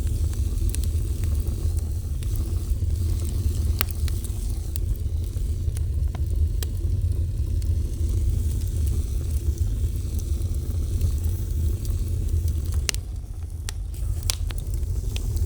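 Fire burning: a steady low rumble of flames with scattered crackles and pops, a few sharp louder pops about 4 seconds in and twice near the end.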